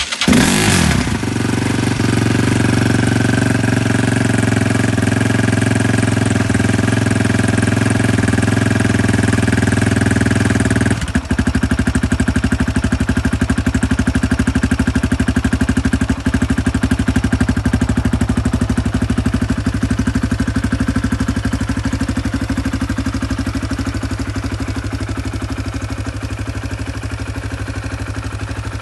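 2005 KTM EXC 250F's single-cylinder four-stroke engine starting up and running at a steady raised speed. About eleven seconds in it drops to a slower idle with evenly spaced firing pulses.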